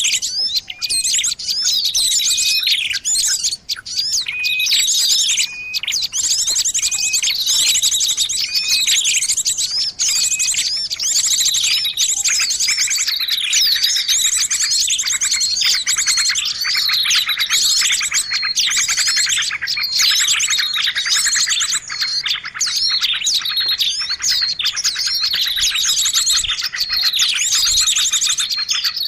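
A dense chorus of many small birds chirping and trilling at once, high-pitched and without pause: a mixed-species bird-lure recording made to draw in birds.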